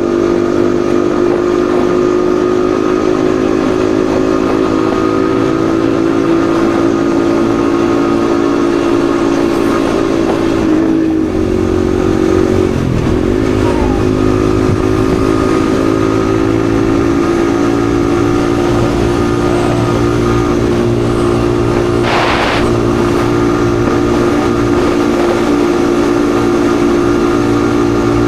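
Yamaha XSR155's single-cylinder 155 cc engine running steadily while riding at cruising speed. Its tone dips and wavers briefly around the middle, and a short sharp sound cuts in about three-quarters of the way through.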